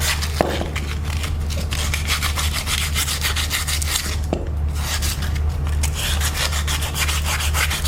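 Fine sandpaper worked by hand over a steel axle in quick back-and-forth strokes, scrubbing off rust and old grease deposits, over a steady low hum.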